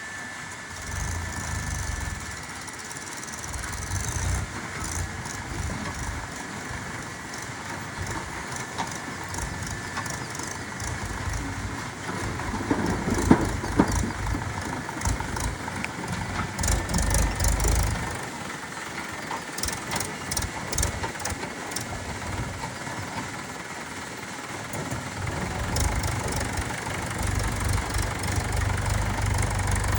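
JCB 3DX backhoe loader's diesel engine running, rising and falling in several long surges as the hydraulics work the bucket, with scattered sharp knocks and clatter of rocks being loaded into a tractor trolley.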